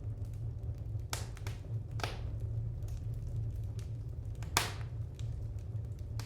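Wood fire crackling in a fireplace: scattered small ticks with a few sharper pops, the loudest just past halfway, over a steady low hum.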